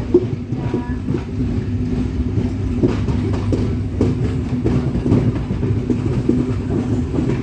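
Train running along the track: a steady low rumble and hum, with irregular clicks and knocks from the wheels on the rails.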